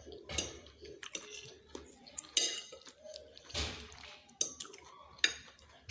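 Metal cutlery clinking and scraping against dishes in scattered short clicks and brief scrapes.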